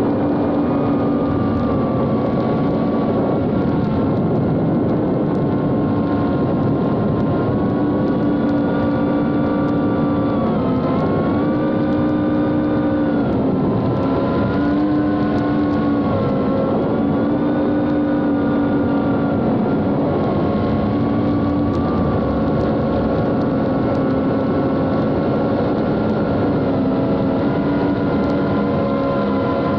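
Reptile Cloud HD cinewhoop quadcopter's brushless motors and guarded Gemfan D76 propellers in flight. They give a steady whine over rushing prop noise, and the pitch dips and rises every few seconds as the throttle changes.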